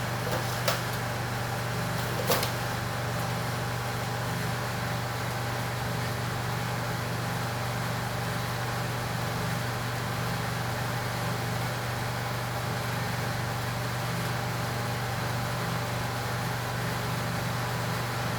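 Steady low machine hum with a light clicking of small metal parts being handled twice, about one and two seconds in.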